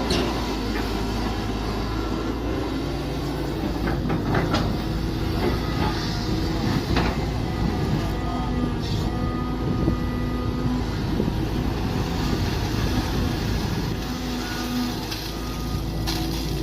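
Mini excavator's engine running steadily while it works, with a few sharp knocks.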